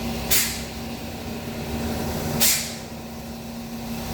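2015 Honda Accord's engine idling with a steady hum, freshly started after a no-crank, no-start wiring fault was bypassed. A short hiss cuts through about every two seconds, twice in this stretch.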